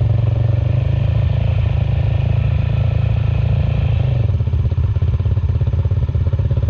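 Suzuki Van Van 125's single-cylinder four-stroke engine running through its aftermarket Black Widow exhaust while riding, a steady rapid pulsing that eases off about four seconds in.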